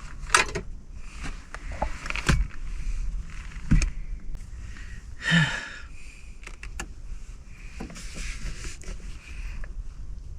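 Scattered small clicks, knocks and rustles of things being handled and moved, with a louder rustling scrape about five seconds in.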